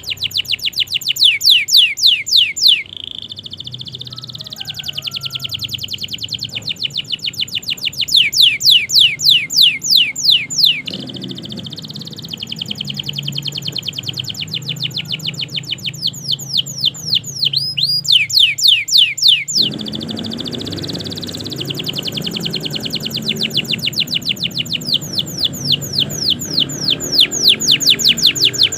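Domestic canary singing: fast trills of about ten repeated notes a second, in phrases of a few seconds with short breaks, including a run of quick sweeping notes.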